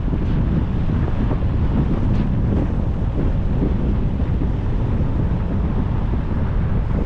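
Wind buffeting the microphone of a camera on a moving car: a steady, loud low rumble with road and vehicle noise underneath.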